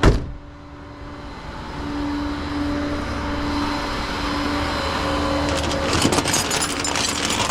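A sharp thump at the start, then a vehicle engine running with a steady hum that grows louder about two seconds in. Rattling clicks come in near the end.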